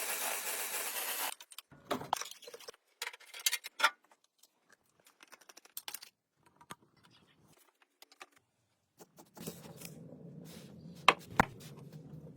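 A steady hiss cuts off about a second in. Scattered light clinks and taps of small metal parts being handled follow. Near the end a low steady hum starts, and two sharp knocks fall over it.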